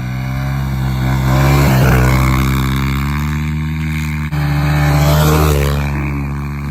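Small motorbike engine running hard under steady throttle, its pitch wavering briefly twice, with a short break about four seconds in, as at a gear shift.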